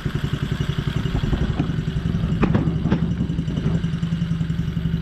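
Coolster 110cc mini dirt bike's single-cylinder four-stroke engine idling steadily with an even, rapid putter. A couple of light clicks come about halfway through.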